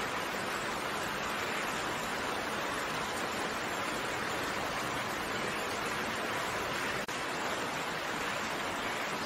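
Steady rainfall, an even hiss with no distinct drops standing out, with a momentary dip in level about seven seconds in.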